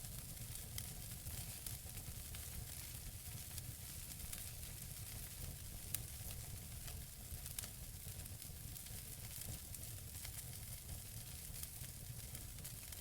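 Wood fire burning in a fireplace: a steady hiss of burning logs with scattered crackles, and a sharper pop about six seconds in and another a moment later.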